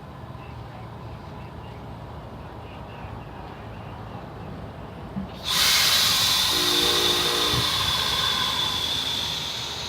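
Amtrak passenger train, with a steady low rumble, then a loud hiss of compressed air that starts abruptly about five and a half seconds in and holds steady, typical of the air brakes releasing or venting. A short low tone sounds about a second into the hiss.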